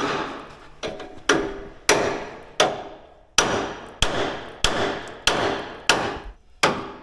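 Hammer pounding on metal, steady blows about every two-thirds of a second, each ringing briefly after the strike: a bent part of a damaged combine header being pounded back into place.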